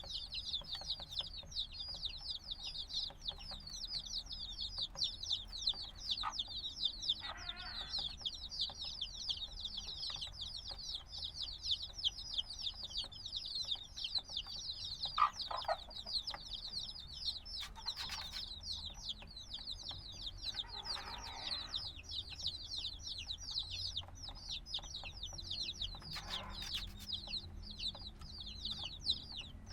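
A brood of chicks a few days old peeping incessantly, many short, high, downward-slurred peeps overlapping without a break. A few brief lower sounds are mixed in.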